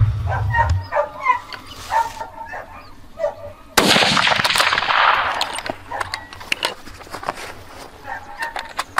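A single hunting gunshot about four seconds in, sudden and loud, its report echoing away over about a second and a half.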